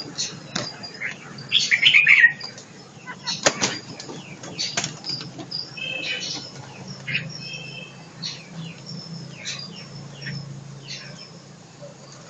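Caged songbirds fluttering and hopping, with sharp clicks and rustles and a few short chirps. The loudest flurry comes about two seconds in.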